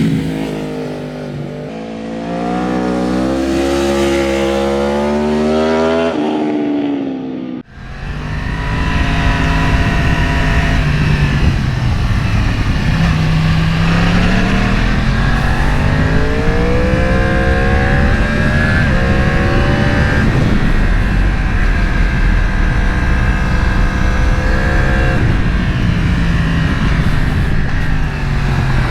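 Sport motorcycle engine heard from the rider's seat, revving up through the gears and dropping back over wind rush. The sound cuts out abruptly about seven and a half seconds in and resumes at once with the engine climbing again.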